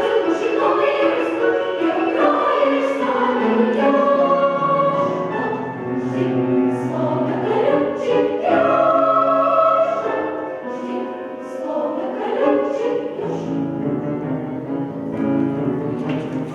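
Children's choir singing a song in Russian with instrumental accompaniment.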